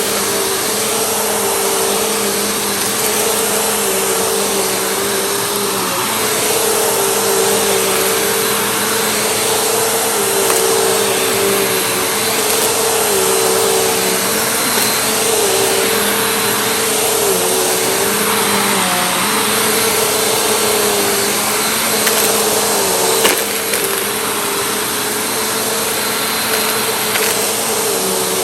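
Vacuum cleaner running continuously, a steady whooshing motor hum whose pitch dips slightly every few seconds. A single sharp tick sounds near the end.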